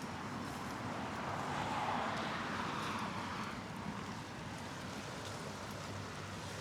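Outdoor night ambience with a steady low hum, and a rushing swell that builds about two seconds in and fades away by about four seconds.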